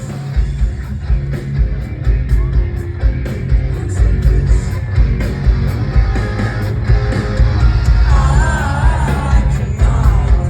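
Live rock band playing loud, with heavy bass and regular drum hits, heard through a phone recording from the crowd.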